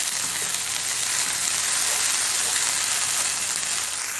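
Sliced onions and ginger-garlic paste sizzling in hot oil in a frying pan, a steady hiss, as they are lightly sautéed.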